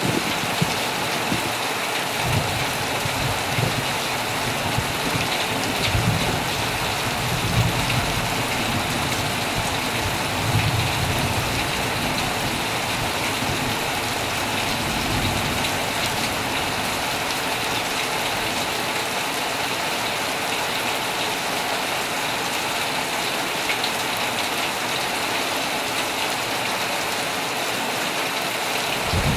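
Heavy rain falling steadily on a tent, an even hiss of many drops. A low rumble comes and goes during the first half.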